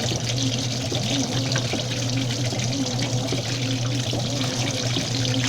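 Washing machine running with water splashing and trickling inside it over a steady low motor hum.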